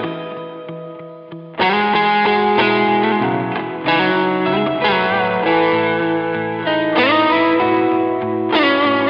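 Electric guitar, a PRS Modern Eagle III, played through an amp with effects and some drive. A chord rings out and fades, then a run of chords is struck about once every second or two. About two-thirds of the way through, a note slides up into a chord.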